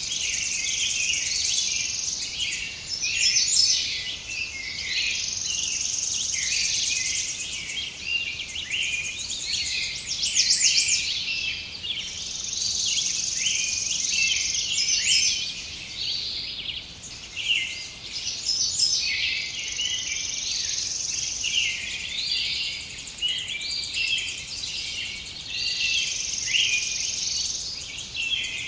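Dense chorus of many birds singing and chirping in a forest, with a high insect trill that swells in for a second or two every several seconds. The sound is thin and high, with hardly any low end.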